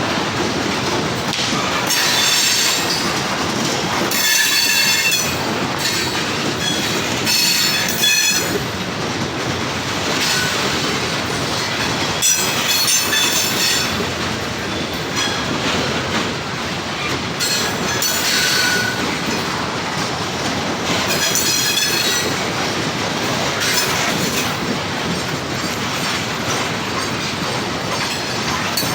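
A CSX train rolling past: a steady rumble of wheels on rail, with high-pitched wheel squeals coming and going every few seconds.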